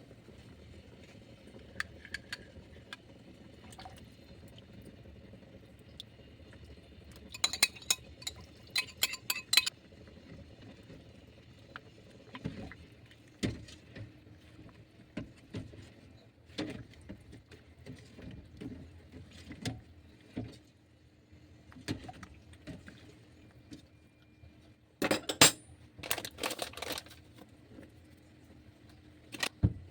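Kitchen work: scattered knocks and clatters of utensils and cookware, with two spells of sharper rattling, about a quarter of the way in and again near the end, over a faint steady hum in the second half.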